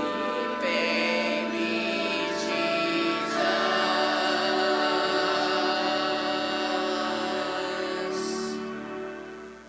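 Choir singing with accompaniment, ending on a long held chord that fades away near the end.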